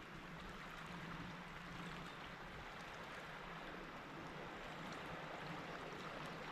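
Steady outdoor background hiss at the lake edge, with a faint steady low hum underneath.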